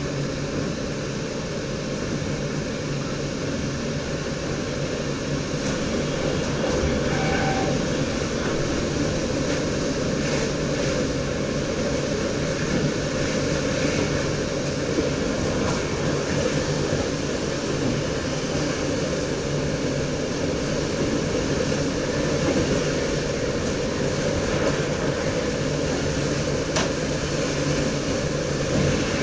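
Steady running noise in the driver's cab of an NS DDZ double-deck electric train rolling along the track, a low rumble of wheels on rails, growing slightly louder a few seconds in.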